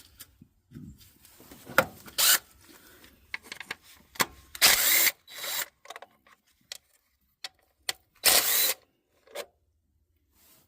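A cordless power tool run in short bursts of about half a second, four or five times, with small clicks and clanks of tools between: spinning out the 10 mm bolts that hold the engine's top cover.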